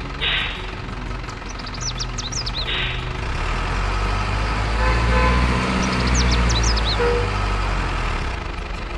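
Heavy truck engine running, a low rumble that grows louder from about four to seven seconds in and then eases off. Short bright hissing bursts come near the start and about three seconds in, and high chirping squeals come twice.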